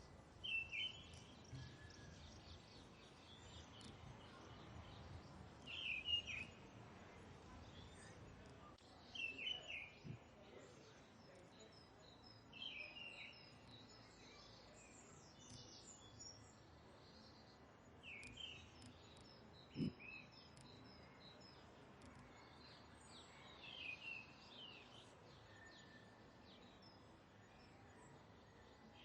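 Birds chirping: short, bright calls repeated every few seconds over faint steady background hiss, with one brief low thump about two-thirds of the way through.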